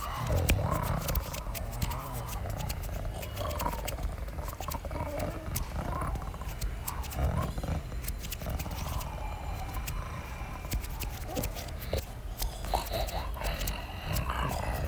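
Large animals growling and roaring in a fight: the tiger and bear the video is about. Rough calls rise and fall every second or so, with scattered sharp clicks among them.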